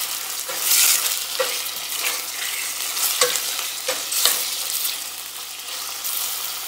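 Chicken breast pieces and onion sizzling in oil in a stainless steel pot as a metal spoon stirs them, scraping and clicking against the pot every so often. The spoon strokes stop after about four and a half seconds, leaving the steady sizzle.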